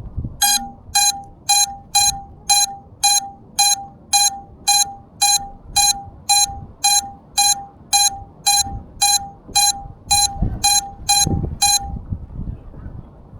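Electronic beeper sounding a steady series of short beeps, about two a second, some twenty in all, then stopping about a second before the end. A couple of dull low thumps come under the last beeps.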